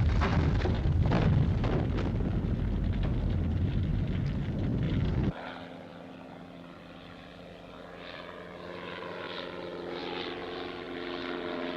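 Loud rumbling explosions with crackling blasts for about five seconds, cut off suddenly. A light biplane's propeller engine then drones steadily in their place, slowly growing louder.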